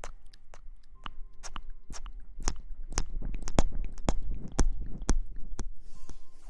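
Close-miked ASMR rustling: dense, irregular crackles and crinkles, busiest in the middle, with a brief hiss near the end.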